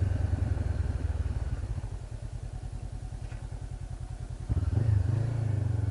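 2013 Honda CB500X parallel-twin engine through its Staintune exhaust, running at low revs with a steady pulse. About four and a half seconds in it gets louder as throttle is opened.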